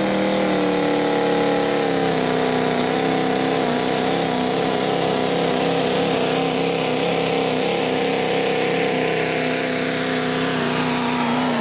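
Diesel pickup truck engine held at high revs under heavy load while pulling the sled, its pitch near-steady with a slight sag a second or two in.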